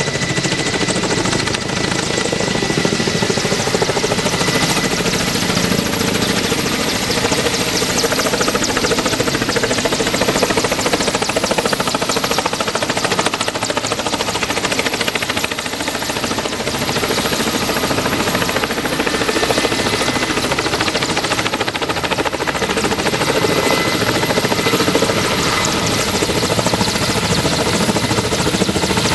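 Kamov Ka-32A11BC coaxial-rotor helicopter running: its turbines and rotors make a loud, steady noise with a high whine over it.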